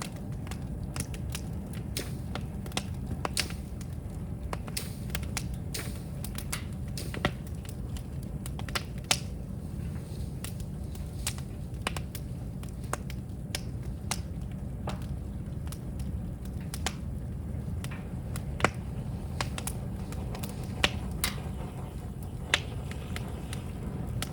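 Bamboo fire burning, with irregular sharp cracks and pops over a low steady rumble.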